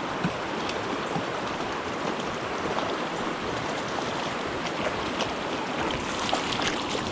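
Steady rush of a flowing creek, with a few faint light ticks scattered through it.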